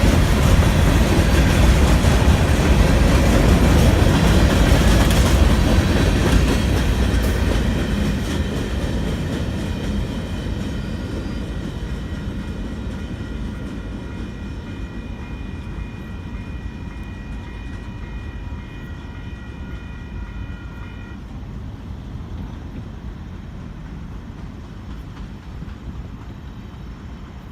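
Freight train of grain cars rolling past on the rails, loud for the first several seconds and then fading steadily as the train draws away.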